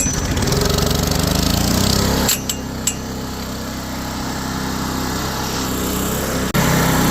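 A Coleman Powermate PM900 generator's small engine catches and runs, speeding up over the first two seconds. About two seconds in it drops back, with a couple of sharp clicks. It runs steadily, then surges louder again near the end.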